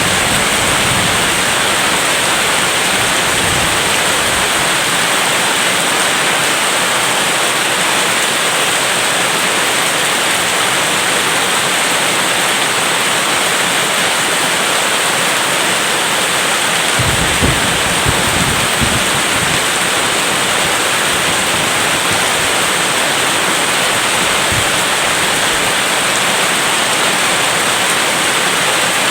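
Steady rain hissing without a break. About seventeen seconds in, a brief low rumble of thunder rolls under it for a couple of seconds.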